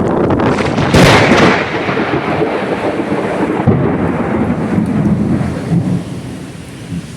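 Thunder: a sharp crack about a second in, then a long low rumble that fades near the end.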